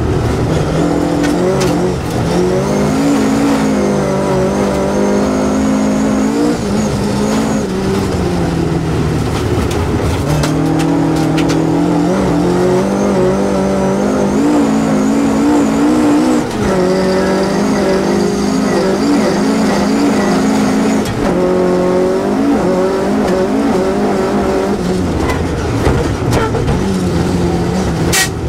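Toyota Starlet rally car's engine heard from inside the cabin, revving hard and repeatedly climbing in pitch then dropping as it shifts gears at racing pace, over steady tyre and road noise. A sharp click near the end.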